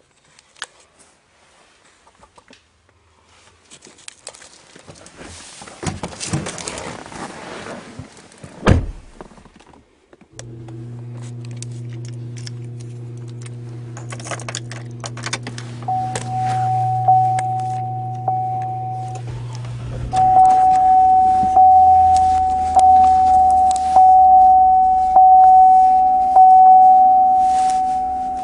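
Rustling and clicks in a truck cab, a single heavy thunk like a door shutting, then the truck's engine starts abruptly and runs with a steady low hum. From about twenty seconds in, a steady high-pitched tone sounds over it and the loudness surges about once a second.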